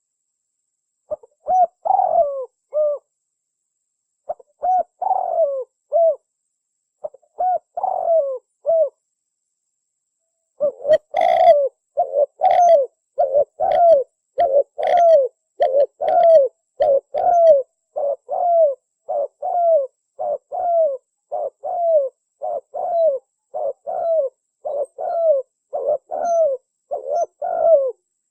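Spotted dove (tekukur) lure call: loud cooing, each coo slurring downward. A few spaced phrases come first, then from about ten seconds in an unbroken run of quick coos, more than one a second.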